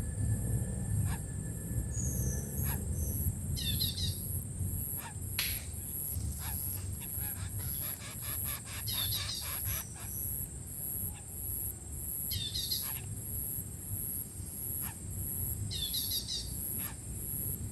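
A small bird calling in four short bursts of quick, high chirps, over a steady, pulsing high-pitched whine and a low rumble, with scattered light clicks.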